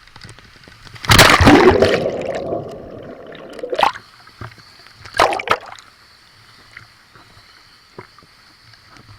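Water in a waterfall pool splashing and sloshing. The loudest splash comes about a second in and trails off over a second or so, with two shorter splashes near four and five seconds in.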